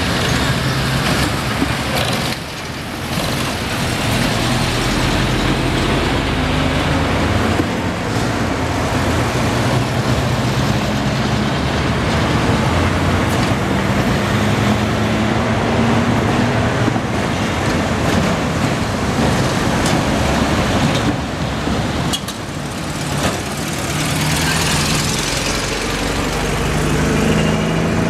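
Street traffic: cars and trucks driving past with engines running, their pitch rising and falling as they pass, with a louder hissing pass near the end.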